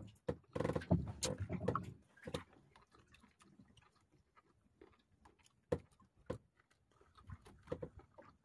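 Close-miked chewing and lip-smacking of a man eating grilled squid, with scattered wet mouth clicks. The loudest smacking comes in the first two seconds; after that come quieter chewing and a few sharp clicks.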